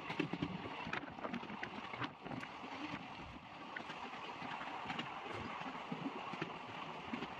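Passenger train running at speed, heard from an open coach doorway: its wheels clatter and click over the rails above a steady rumble and rush of air.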